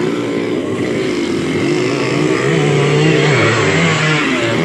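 Several motocross dirt bike engines revving, their pitch rising and falling as they accelerate and shift. One bike swells loudest about three seconds in.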